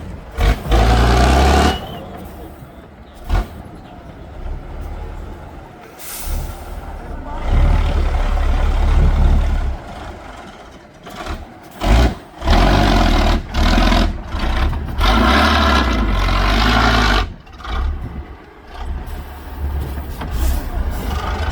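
Heavy off-road trial truck's diesel engine revving hard in repeated surges of a few seconds each, dropping back between them, with a few sharp knocks.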